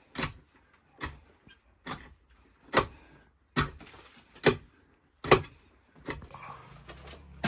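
A series of about nine sharp knocks or chops, evenly paced at a little more than one a second.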